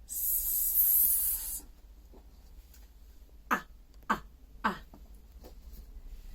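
A woman voicing letter sounds: a long stretched "sss" hiss, then, about three and a half seconds in, three short "a" sounds as in apple, a little over half a second apart.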